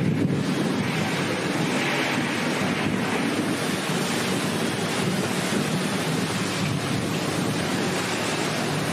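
Rainstorm: heavy rain and strong wind making a steady rushing noise, with wind buffeting the microphone.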